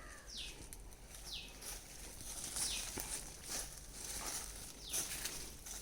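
A bird repeating a short call that sweeps down in pitch, about once a second, with crackling footsteps.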